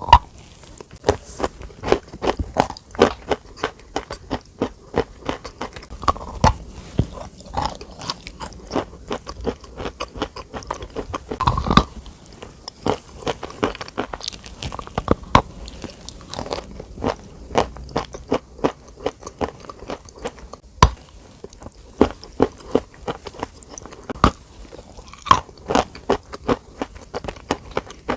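Crisp food being bitten and chewed, with many sharp crunches in quick, irregular succession.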